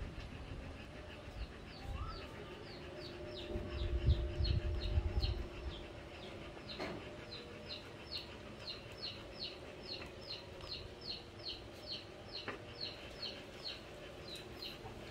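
A bird chirping over and over, about three short falling chirps a second, from a few seconds in. Under it is a steady low hum, and a burst of low rumbling thumps comes about four to five seconds in.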